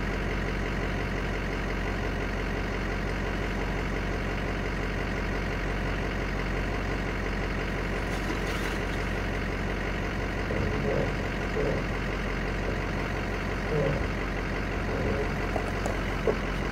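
2006 Ford F-350 dually pickup's engine idling steadily as the truck is backed slowly under a truck camper, with a few short, brief sounds over the hum in the last several seconds.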